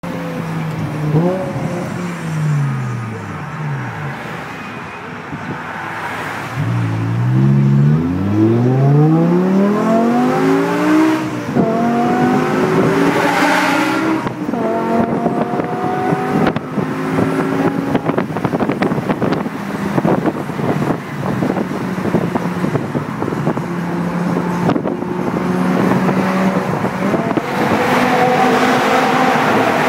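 BMW M6 V10 with an Eisenmann race exhaust: a rev that falls away, then a hard rev and full-throttle acceleration, the pitch climbing and dropping back at each upshift. Crackles from the exhaust come in the middle, and the engine then runs at a steadier pitch to the end.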